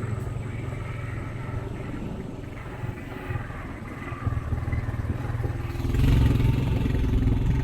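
Off-road vehicle engine running steadily while driving over rough wooded trail, growing louder about six seconds in.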